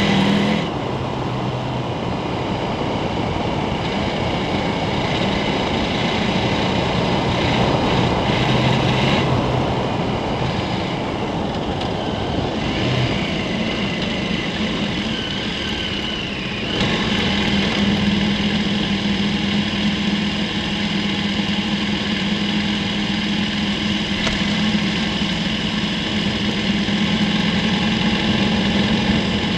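KTM 1290 Super Adventure's V-twin engine running as the motorcycle rides along, mixed with wind and tyre noise. The engine eases off about a second in, then settles into a steady tone from about halfway through.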